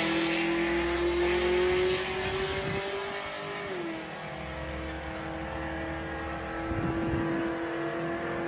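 A 2002 Pontiac Firebird Formula's 383 cubic-inch LS V8 pulls at full throttle down a drag strip, its pitch climbing steadily. The pitch drops sharply once, about four seconds in, as the 4L60E automatic upshifts, and then climbs again. It grows fainter as the car runs away.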